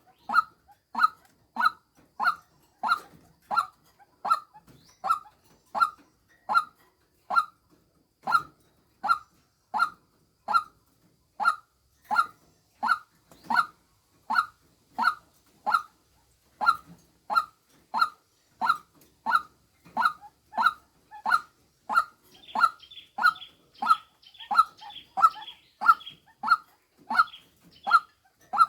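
White-breasted waterhen's call, the female call used as a lure: one short, falling note repeated evenly about 1.3 times a second. Faint higher chattering joins underneath from about 22 seconds in.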